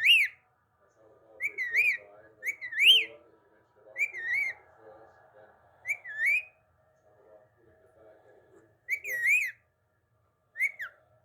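Pet parrot whistling in short, high phrases that swoop up and down, about seven times with pauses between, over faint low chatter.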